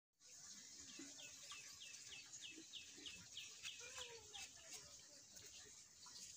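Faint bird calls: a run of about ten short, falling chirps, about three a second, with a few lower clucking calls among them.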